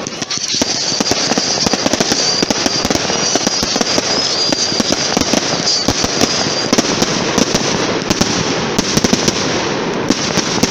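Fireworks crackling continuously with many sharp pops, and a wavering high whistle through the first half.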